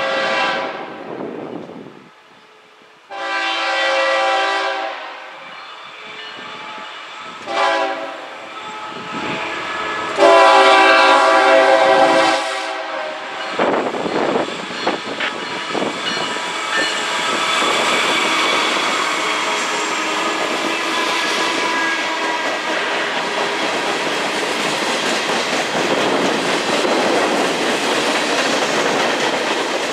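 Diesel locomotive's multi-chime horn sounding the grade-crossing signal (long, long, short, long), followed by the freight train passing close by, its wheels clattering over rail joints in a steady rhythm.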